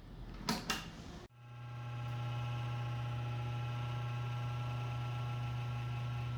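Two short clicks, then just over a second in a desktop computer's power supply starts a steady low electrical buzz with many overtones as the machine powers on. This startup noise is the sign of a power supply reaching the end of its working life.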